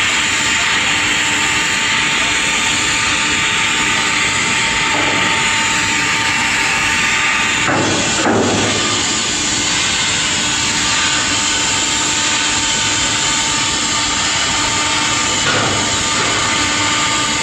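Stick (arc) welding: the arc hisses and crackles steadily, with a faint machine hum under it. About eight seconds in there is a brief louder surge.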